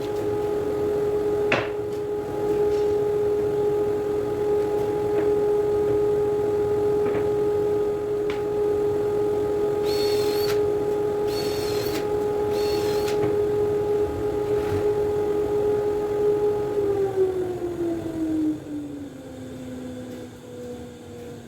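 A steady mechanical hum from a running motor, which drops in pitch over about two seconds near the end and settles at a lower hum. Three short hisses come one after another a little before halfway.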